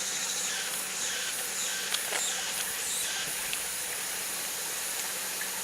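Steady outdoor hiss with a high, even insect drone and a few short, faint chirps.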